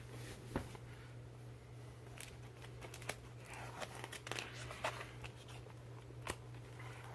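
Faint paper crinkling and scattered light clicks of a picture book being handled, its pages being turned, over a steady low hum.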